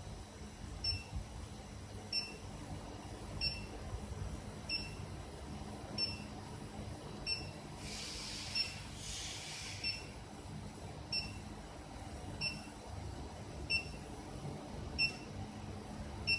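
A high-frequency induction heating machine beeping at a steady pace, about one short beep every 1.3 s, over a steady low hum. A brief hiss comes through about halfway in.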